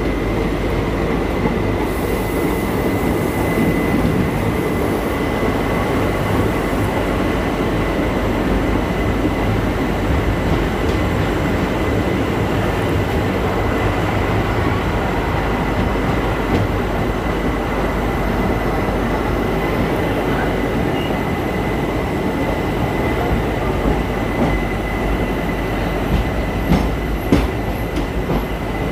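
Passenger train coach running into a station: a steady rumble of wheels on rail with a thin, steady high squeal over it, and a few sharp clicks near the end.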